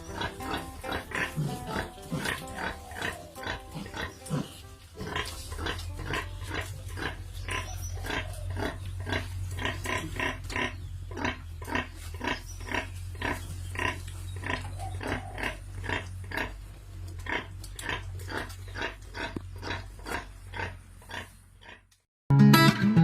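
Pigs grunting, many short grunts about three a second, over a low steady hum. About 22 seconds in it cuts off to silence and a strummed guitar begins.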